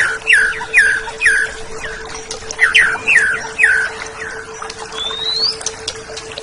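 Oriental magpie-robin (kacer) singing: two quick runs of about five sharp, falling chirps each, then a single rising whistle near the end. A steady low hum runs underneath.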